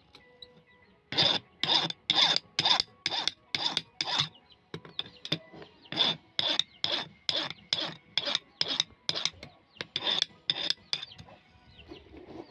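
A steel chisel being sharpened by hand: rhythmic scraping strokes, about two a second, with a few fainter strokes midway.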